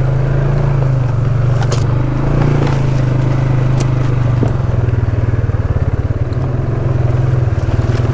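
ATV engine running steadily at low speed on a rough trail, its pitch wavering a little, with a few brief knocks and rattles from the machine.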